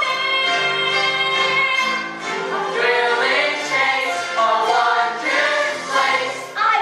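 A group of young singers singing together over a musical backing track. Held accompaniment chords fill the first couple of seconds before the voices come in.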